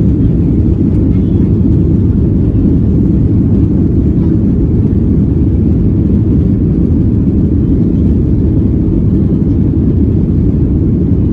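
Steady, loud low rumble inside the cabin of a Boeing 737-800 from its jet engines and airframe, holding even throughout.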